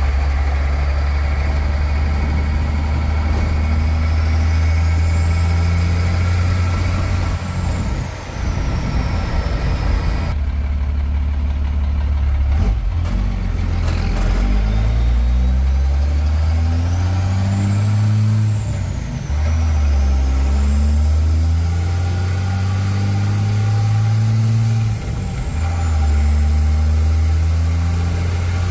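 A vehicle's engine running under way, steady at first, then climbing in pitch twice in the second half with a short dip after each climb, as it accelerates through the gears. A thin high whistle rises and falls above the engine.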